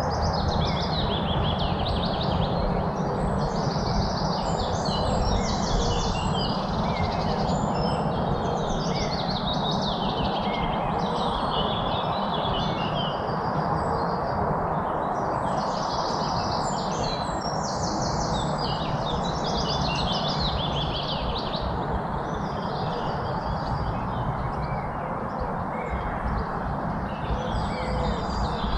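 A chorus of several songbirds chirping and trilling in quick overlapping phrases, over a steady background noise.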